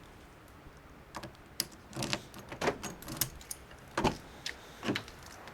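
Irregular handling noises inside a car: a scattered series of short clicks, knocks and rustles with no engine running yet.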